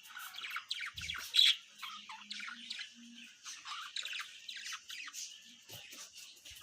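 Budgerigars chirping and squawking in a quick, continuous run of short high calls, with one louder squawk about a second and a half in.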